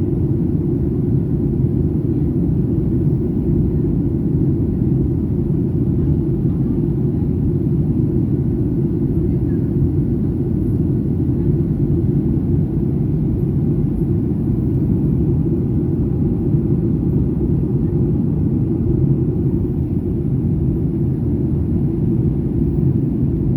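Steady low rumble heard from the cabin of a Boeing 737-800 in flight, from its CFM56-7B jet engines, even and unchanging.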